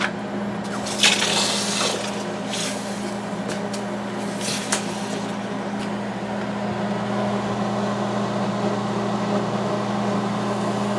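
A steady low machine hum, with a few short hissing rustles about a second in and again near the middle.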